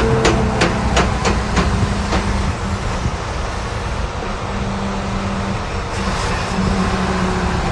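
Freightliner Cascadia truck driving with its forward differential damaged from running low on oil: a low, ugly drone, with a rhythmic clacking about three times a second that fades out about two seconds in.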